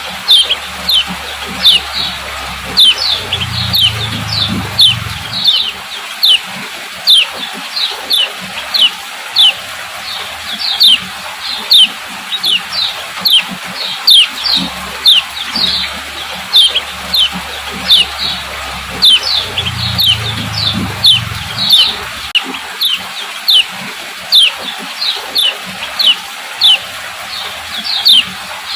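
Female lemon-bellied white-eye (kecial kuning) giving a run of sharp, short 'ciak' chip calls, each sliding down in pitch, about two to three a second without pause.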